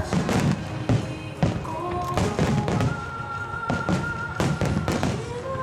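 Aerial firework shells bursting in quick succession, several thuds a second, over music with long held notes.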